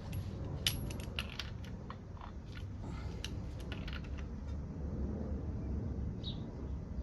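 Light metallic clicks and clinks of hand tools and screws working on a motorcycle engine's ignition points backplate, mostly in the first half.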